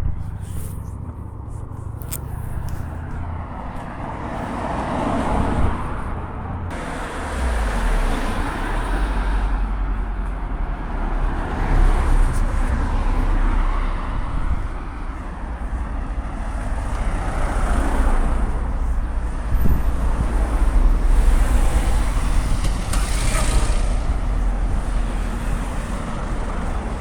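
Road traffic: motor vehicles passing one after another with a steady low rumble, the sound swelling and fading several times.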